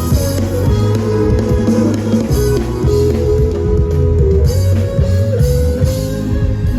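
Live band music without vocals: guitar playing held, sliding notes over drums and bass.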